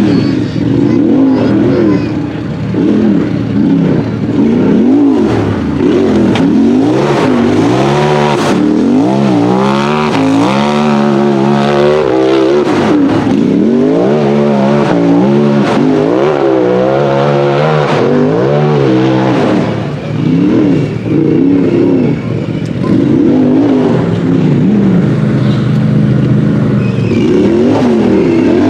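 UTV race buggy engine revving hard under changing throttle, its pitch rising and falling over and over every second or two, and holding steadier near the end.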